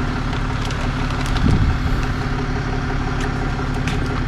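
Vehicle engine idling steadily, with a few short crunches or scrapes over it.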